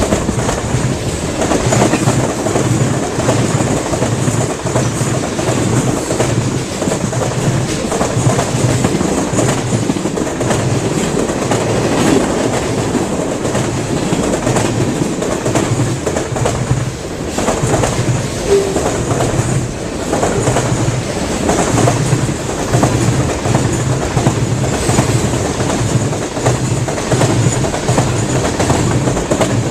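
A train rolling past, its wheels clacking in a steady rhythm over the rail joints.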